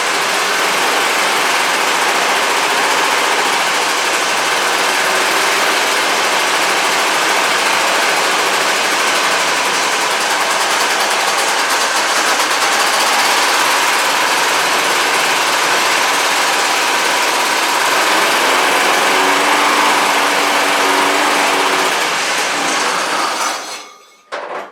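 1972 Sno-Jet snowmobile's Hirth two-stroke engine running steadily through its newly fitted exhaust, then shut off near the end.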